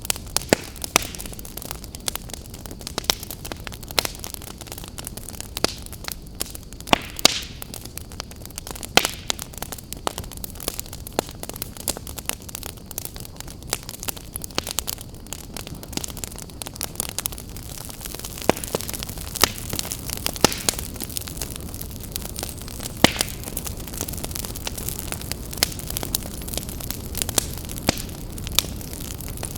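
Open wood fire crackling: irregular sharp pops and snaps over a steady low rushing of flame, the popping growing denser in the second half.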